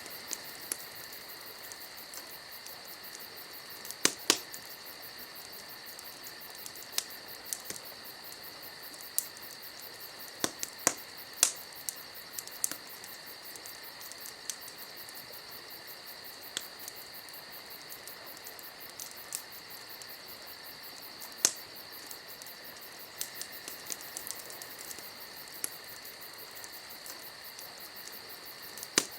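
Wood fire crackling: sharp pops and snaps at irregular intervals over a steady high hiss.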